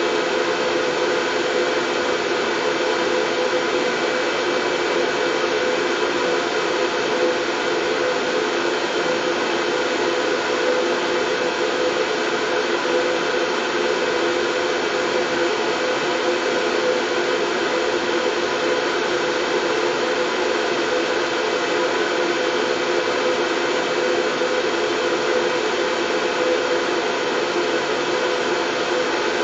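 Steady, unchanging white noise, heaviest in the lower middle range, with a slight whirring, appliance-like colour.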